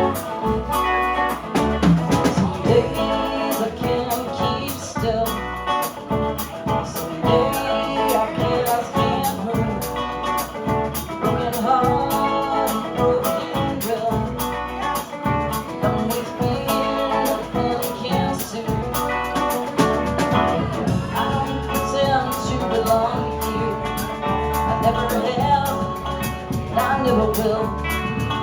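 A live band playing an instrumental passage of a rock song, with guitar and bass over a steady drum beat.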